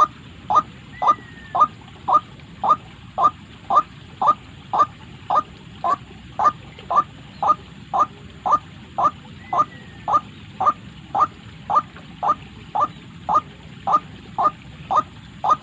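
White-breasted waterhen call: one short note repeated steadily and evenly, about twice a second.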